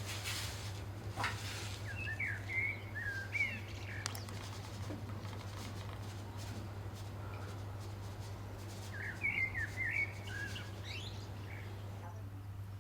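Small birds chirping in two short bursts of quick twittering, one about two seconds in and another about nine seconds in, over a steady low hum.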